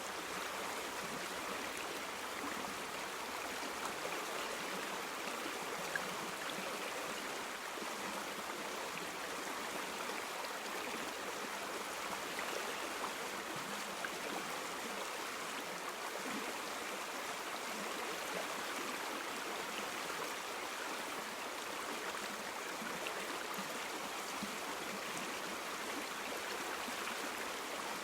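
A river or stream flowing over rocks: a steady, even rush of water with small splashes and gurgles.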